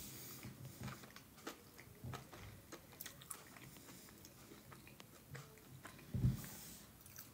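A person chewing a mouthful of soft food (air-fried potato in a creamy mustard-yogurt sauce) with the mouth closed, faint and irregular, with small wet clicks. A soft low thump comes about six seconds in.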